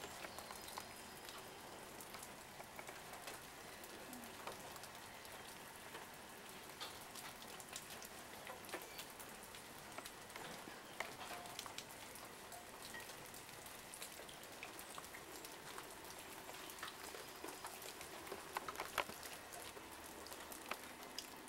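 Falling snow in a snowstorm pattering faintly on surfaces: a low steady hiss dotted with many small irregular ticks.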